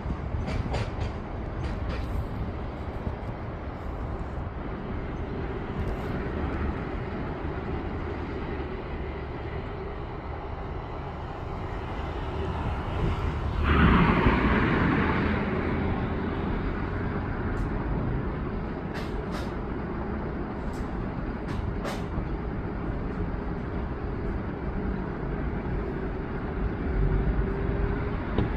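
GBRf Class 66 freight train with loaded limestone wagons rolling through a junction, a steady rumble with a held hum. About fourteen seconds in comes a sudden hiss of air that dies away over a few seconds.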